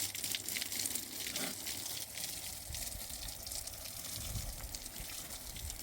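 Steady rushing of flowing water, with a low rumble that grows stronger about three seconds in.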